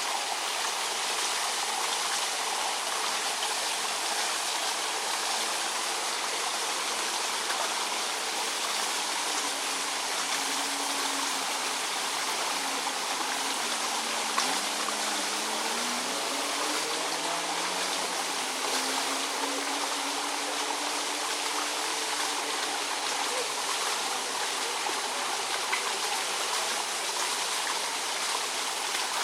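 Steady rush of flowing water, like a stream or a channel running over a drop, even and unbroken.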